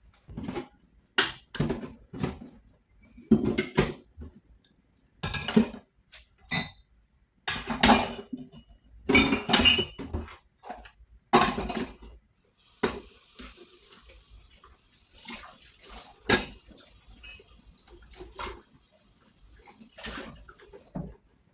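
Dishes and cutlery knocking and clinking as they are handled one by one during washing-up. About halfway through a tap starts running with a steady hiss under further clinks, and it stops near the end.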